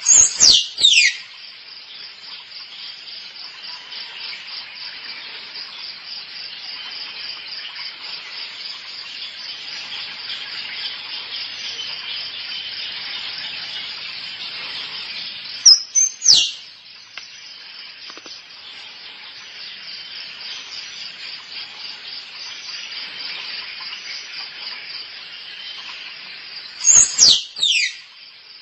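Squirrel calling: three short bursts of sharp, high squeaks that fall quickly in pitch, near the start, a little past halfway, and near the end. A steady high-pitched buzzing runs underneath.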